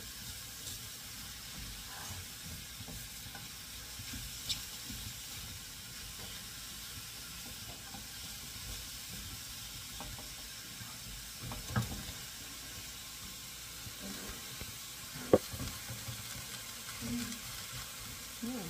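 Mushrooms sizzling steadily in a frying pan while being stirred with a spatula, with a few sharp clicks of the spatula against the pan, the loudest about fifteen seconds in.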